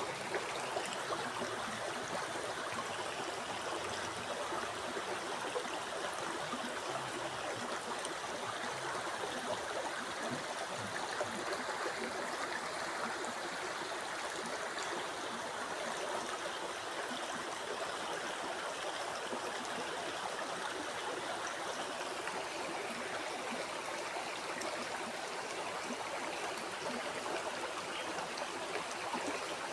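A flowing river or stream: water running and gurgling over rocks in a steady, even rush.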